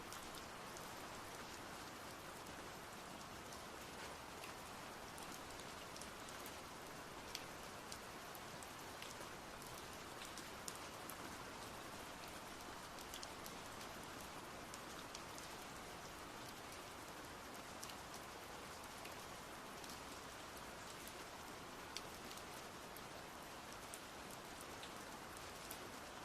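Steady faint hiss sprinkled with many scattered small ticks, a rain-like patter with no rhythm to it.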